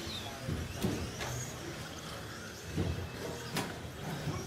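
Electric RC short-course trucks racing, motors whining and tyres running over the track, with a couple of sharp knocks, one about a second in and one near three and a half seconds.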